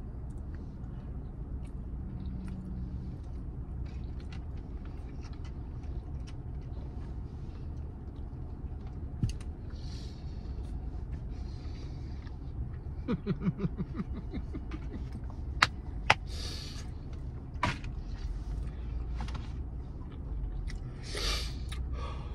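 Steady low rumble of a car engine idling, heard inside the cabin, under quiet eating sounds: a few sharp mouth clicks, a brief run of hummed 'mm' sounds about halfway through, and sharp breaths near the end as the wasabi's heat hits.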